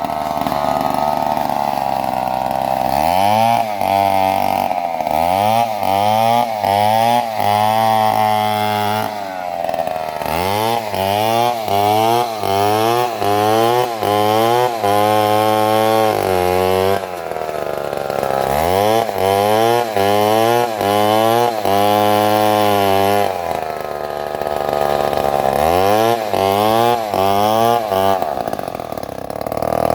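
Stihl two-stroke chainsaw revving in quick bursts, about one or two a second, in four runs with short stretches of steady running between them.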